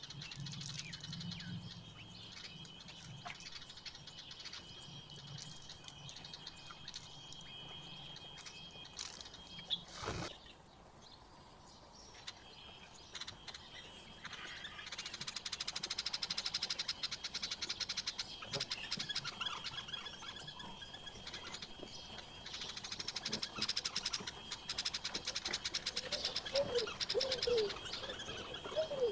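Wild birds calling: a steady high thin note for the first few seconds, a single click about ten seconds in, then busy songbird chirping from about halfway, with low cooing of a dove near the end.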